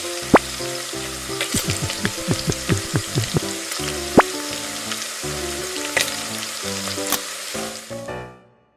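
Sizzling sound of food frying, played for a toy stove and plastic frying pan, with a few sharp clicks along the way; the sizzle fades out near the end.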